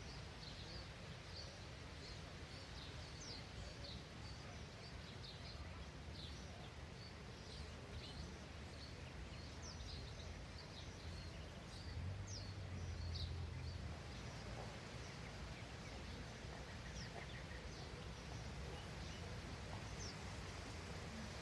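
Birds chirping outdoors: many short, high chirps scattered through, thinning out in the last third, over a low steady rumble that swells briefly just past the middle.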